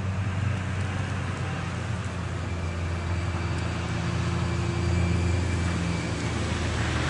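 Car engines running in slow traffic on a snow-covered road: a steady low hum, with a faint thin tone joining in over the middle of the stretch.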